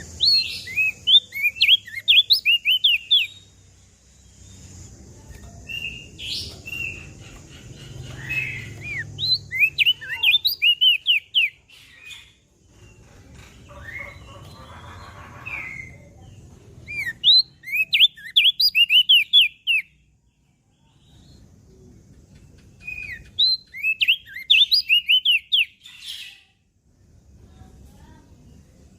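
Crested white-eye (opior jambul) singing in repeated bursts of rapid, high, sweeping chirps, each burst a few seconds long with short pauses between.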